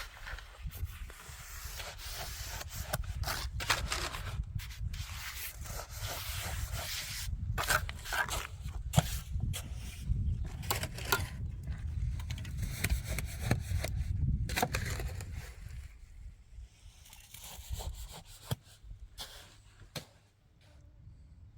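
Irregular scraping and rubbing strokes of hand work during house building, over a steady low rumble. They thin out after about sixteen seconds.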